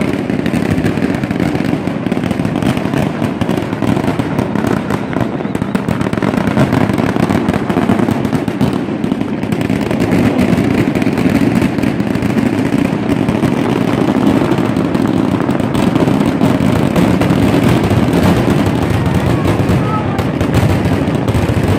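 Large fireworks display going off in a dense, unbroken barrage of bangs and crackling.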